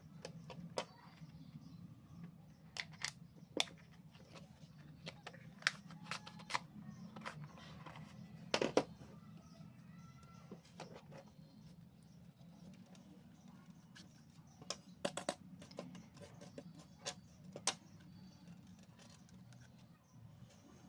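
Scattered small clicks and taps, irregular and a few seconds apart, with a cluster about midway and another two-thirds of the way in, over a faint steady low hum.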